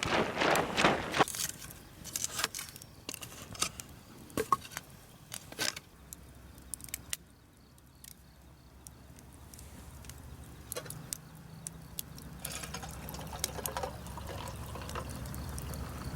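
Liquid pouring and dripping, with scattered light clicks and knocks, and a low steady rumble that builds through the second half.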